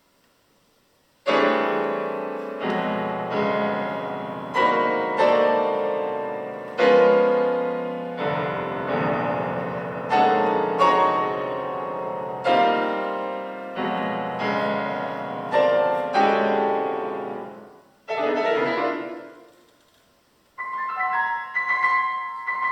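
Solo piano playing a series of loud, ringing chords, each struck hard and left to decay before the next. A softer figure fades away, and after a short pause a quick run of high notes begins near the end.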